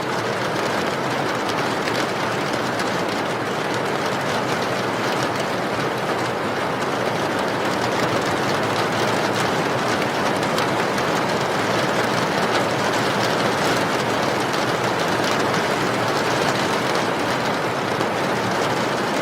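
Steady rain: an even, unbroken hiss with faint fine ticks of drops through it.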